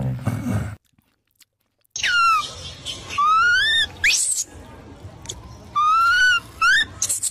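A dog's low growl trails off in the first second. After a short silence, a macaque gives about six high, clear calls, each a second or less, most sliding upward in pitch and one sweeping sharply up.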